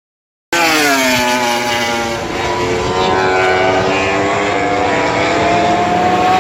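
MotoGP racing motorcycle's 1000 cc four-stroke engine at full throttle flying past at top speed: the engine note drops sharply in pitch as the bike passes, then holds and edges up again as it pulls away. The sound starts abruptly about half a second in.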